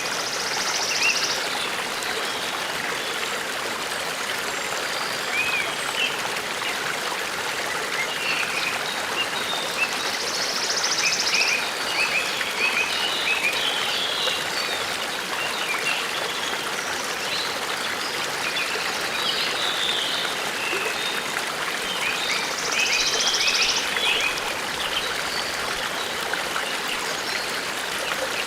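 Forest stream running with a steady babble. Birds chirp over it, and a high trilling song comes three times, about eleven seconds apart.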